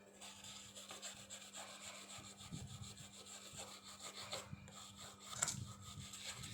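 Continuous rubbing and scraping from hands working on a mobile phone, with one sharp click about five and a half seconds in.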